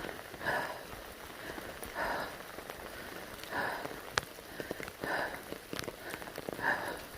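Footsteps on a wet forest trail, about one step every three-quarters of a second, over steady rain; a single sharp click about four seconds in.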